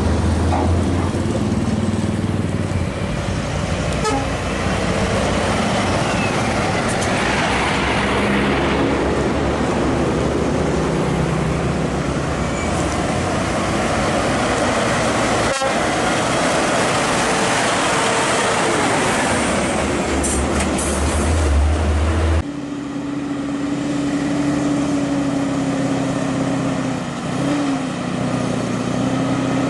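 Heavy trucks driving by, with engine and tyre noise. Near the end the sound changes abruptly to a steadier, quieter engine drone holding one tone.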